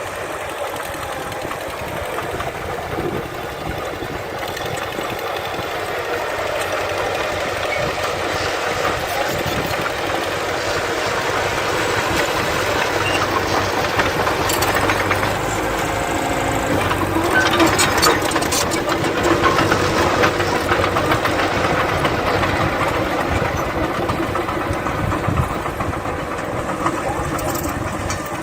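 Diesel engine of heavy earthmoving machinery (bulldozer or dump truck) working, growing louder toward the middle and easing off near the end, with some rattling and clanking around the middle.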